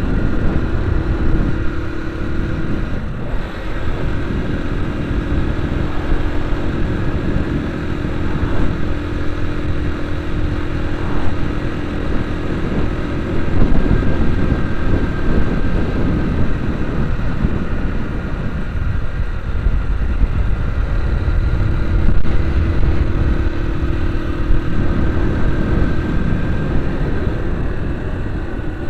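Vehicle engine running steadily under load while climbing a mountain road, with a heavy low rumble of road and wind noise and a faint engine hum that fades in and out.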